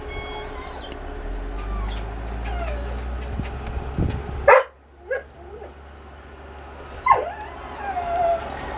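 A dog whining and yipping, with a sharp cry about halfway through and a falling whine near the end, over the low rumble of a snow-clearing machine's engine that drops out midway.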